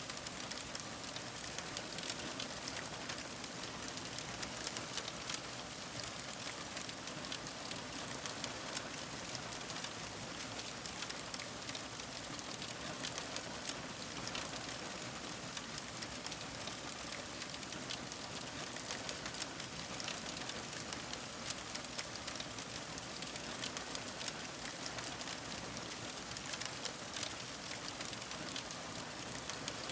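Fire crackling: a steady hiss with many small, irregular pops and snaps.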